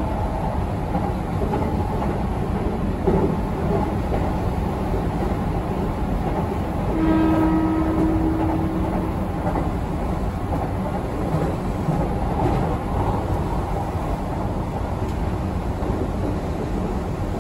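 Keihan 8000 series electric train running at speed, a steady rumble of wheels on rail. About seven seconds in, a horn sounds once, held for about two seconds.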